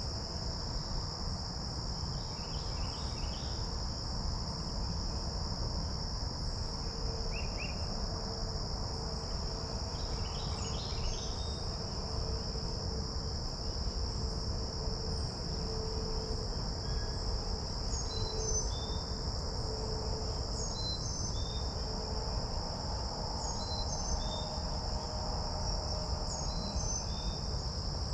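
Steady, high-pitched chorus of insects, typical of crickets, with small birds chirping repeatedly over it and a few quick trilled calls in the first half.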